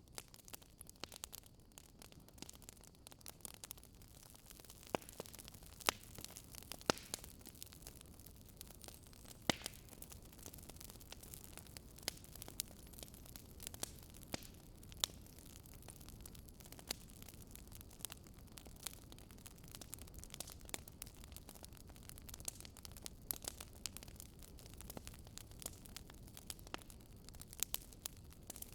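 Fire in a fireplace crackling: irregular sharp pops and snaps over a soft, steady hiss and low rumble.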